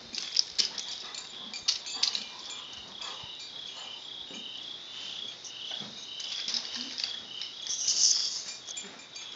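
Insects, most likely crickets, chirping steadily at about two chirps a second, with scattered sharp clicks in the first couple of seconds and a short loud hiss about eight seconds in.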